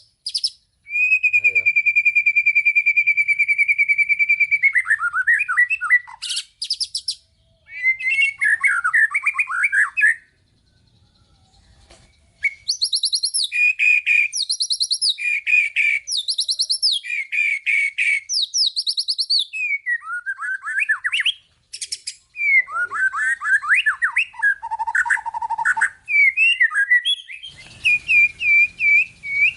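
White-rumped shama (murai batu) singing a loud, varied song: a long steady trill, then rapid repeated notes and sweeping whistled phrases with short pauses between. A steady hiss comes in near the end.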